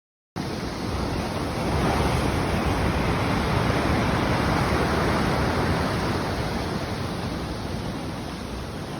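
Storm wind rushing hard against the microphone, a steady noise that cuts in abruptly just after the start.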